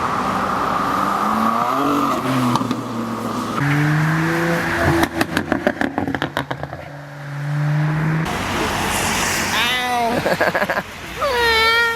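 Cars accelerating away, engines revving up and shifting, with a rapid string of sharp cracks about midway and two short high squeals near the end.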